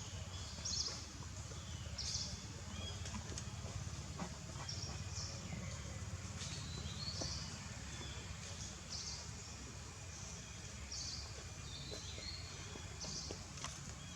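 Short high chirps, likely a bird calling, repeating about once a second over a steady low rumble of outdoor background noise.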